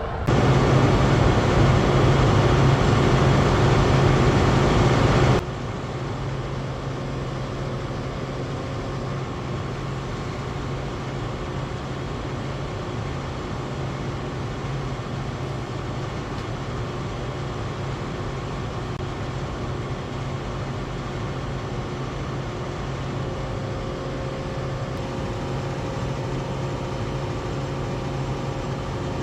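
A vehicle's engine running steadily with a low hum. The sound drops abruptly about five seconds in, then carries on steady and quieter.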